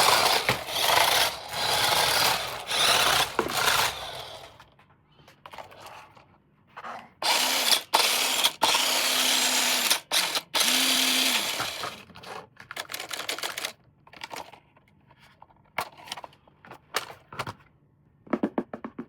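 A toy's small electric motor whirring in short bursts, stopping and starting, with a low steady hum in some bursts. Scattered clicks and handling knocks follow near the end.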